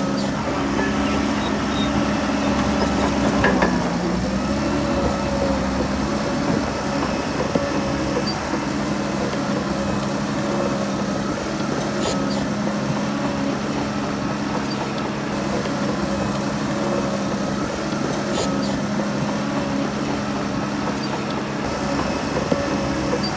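Diesel engine of a Shantui DH17C3 bulldozer running steadily at work, its pitch dipping briefly about four seconds in as it takes load. A few sharp metallic clanks come twice, in the middle and later on.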